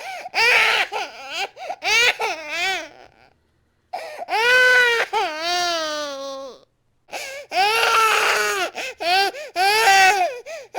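A baby crying in raging wails, several bouts broken by short gaps for breath. The longest wail, in the middle, falls in pitch as it trails off.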